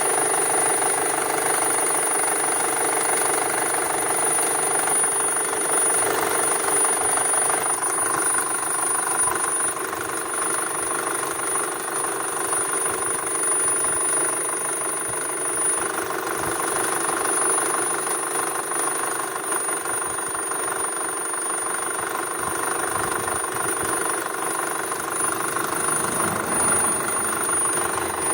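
VW Touran 2.0 FSI four-cylinder petrol engine idling steadily, with a thin, continuous high-pitched whistle over it. This is the unexplained beep or whistle the owner hears from the engine.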